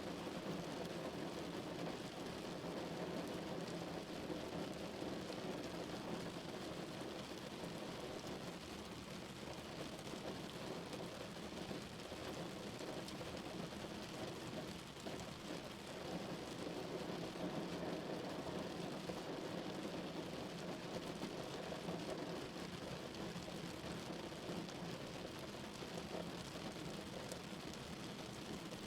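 Steady rain drumming on a car's roof and windows, heard from inside the vehicle as a dense, even patter with a muffled low rumble.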